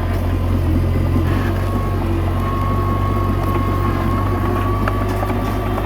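Komatsu D21A bulldozer's diesel engine running steadily, with a thin steady whine above the engine note.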